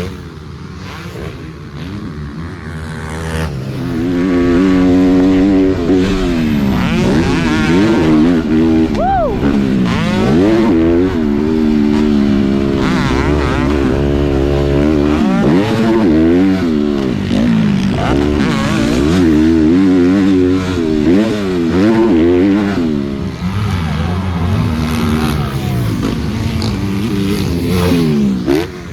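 Motocross dirt bike engines revving hard and dropping back over and over as the bikes accelerate, shift and brake around the track. The engine sound is softer for the first few seconds, then loud.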